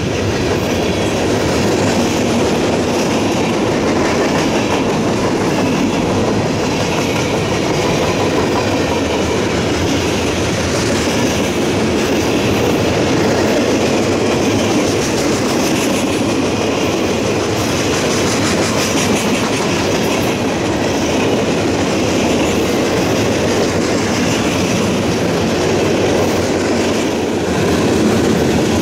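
Freight cars of a CSX mixed manifest train rolling past close by: a steady, loud noise of steel wheels running on the rails, with no locomotive in the sound.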